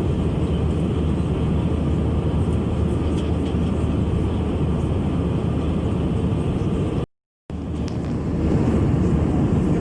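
Steady roar of an Airbus A321-200's engines and airflow, heard from inside the passenger cabin. It drops out for a split second about seven seconds in, then comes back slightly louder.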